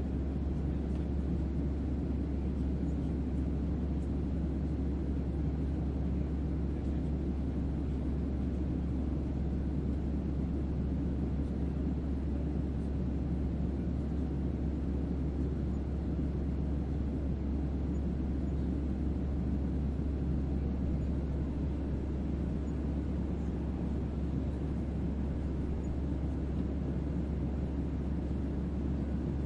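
Ambient starship-cabin hum made of white noise with deep bass: a steady, even bass drone under a low rushing noise that does not change.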